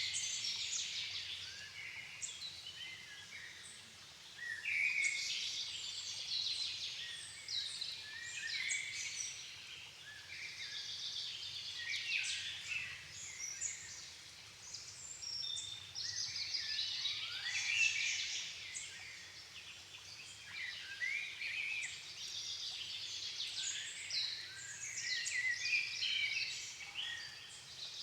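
Forest dusk chorus: several songbirds singing at once, their quick warbled and whistled phrases overlapping and rising and falling in waves.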